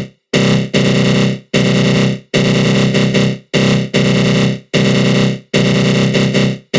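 Synthesized attack growl sound effect from the GMS synth, a loud, low, gritty tone with a fluttering flanger sweep. It repeats in bursts of about a second, each broken off by a brief silent gap.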